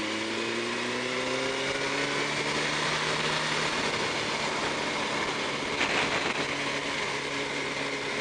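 Yamaha R1's inline-four engine pulling as the motorcycle accelerates, its pitch rising over the first few seconds, then running steadily at cruising speed under rushing wind noise, with a brief rougher patch about six seconds in.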